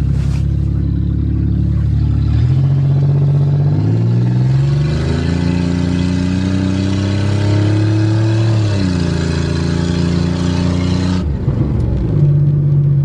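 Car engine pulling the car along under throttle. Its pitch climbs in steps over about six seconds, then drops away about nine seconds in. A hiss of road or wind noise joins about five seconds in and stops suddenly near eleven seconds.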